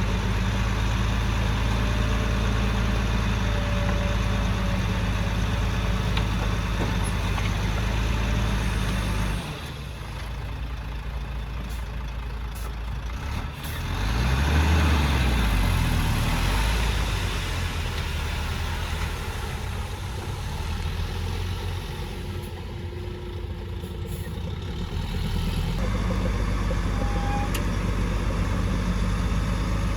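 Heavy diesel engines of earthmoving machinery running. The engine sound changes abruptly about a third of the way in and again near the end. Around the middle there is a louder stretch where the engine pitch rises and falls.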